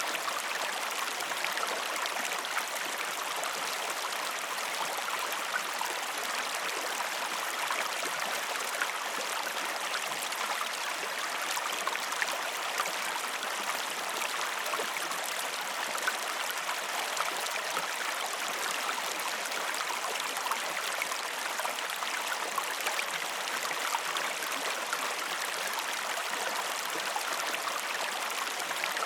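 A river flowing in a steady, even rush, with small trickling and splashing flecks.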